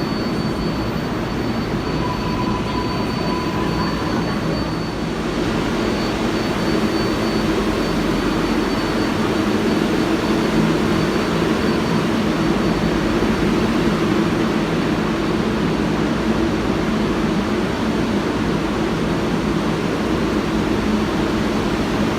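Steady rumble and rush of a New York City subway train, growing a little louder about five seconds in, with a thin high whine that fades out at that point.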